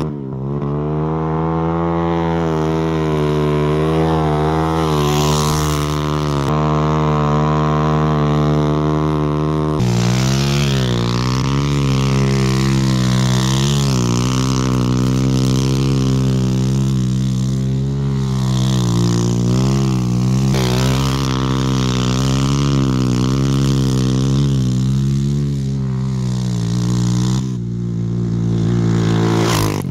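Dirt bike engine running hard while riding, its revs rising and falling again and again, with a sudden change in tone about ten seconds in.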